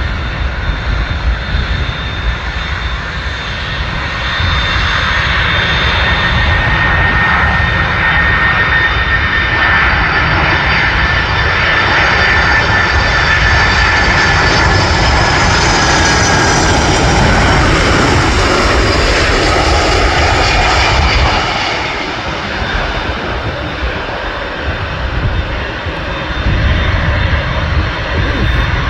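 Lufthansa Boeing 747-400 on landing approach, its four turbofan engines passing by with a whine and rumble. It grows louder to a peak around the middle as the whine slowly falls in pitch, then drops away suddenly about 21 seconds in.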